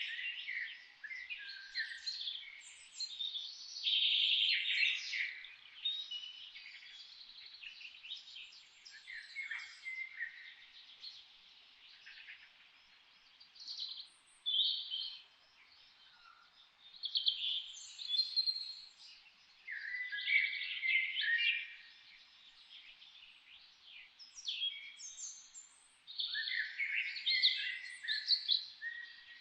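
Several songbirds singing and chirping over one another in quick trills and short phrases. The song comes in bouts, with brief lulls between them.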